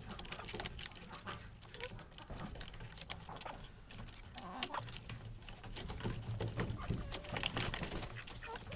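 Chickens calling and moving about, with scattered short clicks and rustling over a low rumble.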